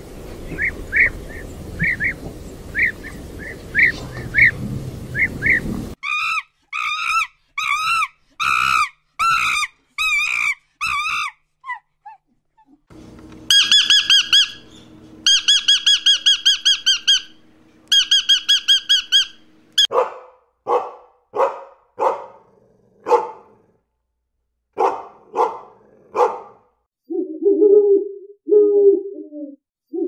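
Bird calls from several species in turn: short repeated chirps over a steady hiss for the first six seconds, then repeated calls with clear stacked tones, fast runs of high calls, a series of falling calls, and low repeated calls near the end.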